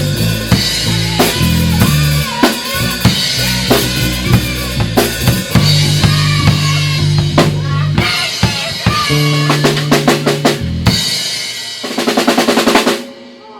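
A live rock band playing together, drum kit loudest over bass and guitar, with the drums ending in a fast roll near the end before the music stops.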